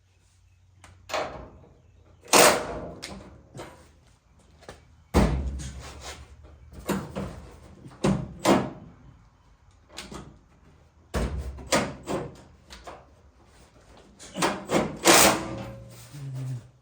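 Irregular metal clanks and knocks from working on a Chevrolet square-body pickup's cab door and its hinge bolts, with a few heavier thuds as the door is shifted.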